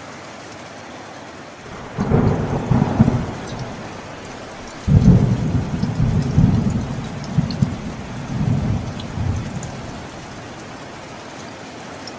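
Steady rain with two rolls of thunder: a rumble about two seconds in, then a louder, longer rolling rumble from about five seconds in that dies away near the end.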